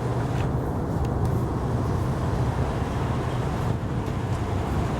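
A boat's diesel engine running with a steady low drone, with a haze of wind and water noise over it.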